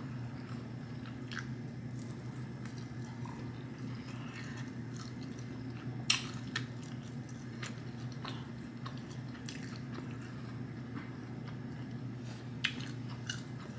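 A person chewing sauce-coated fried chicken with the mouth closed: soft, scattered crunches and wet mouth clicks, a couple standing out about six seconds in and near the end, over a steady low hum.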